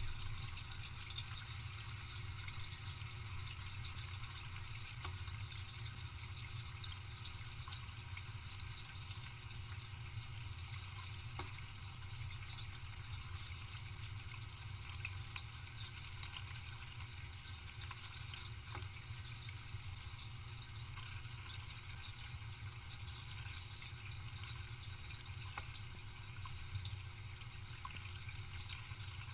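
Dishwasher running: a steady wash of water spraying over a low pump hum, with a few faint ticks.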